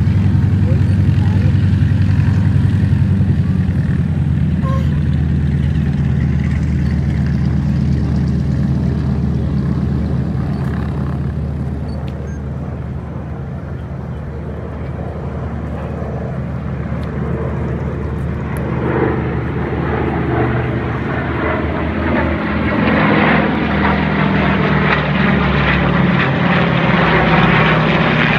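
P-51D Mustang's Packard Merlin V-12 engine and propeller droning in flight, loud at first, fading somewhat around the middle, then building louder again toward the end as the plane comes back around.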